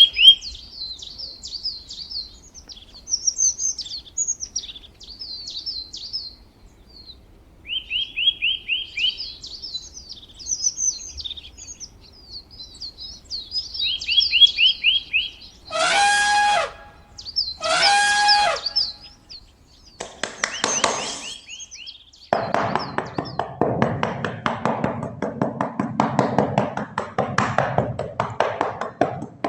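Small birds chirping and singing, with short repeated trills. About halfway through, two loud pitched calls of about a second each come two seconds apart. In the last quarter a dense, rapid tapping and clattering sets in.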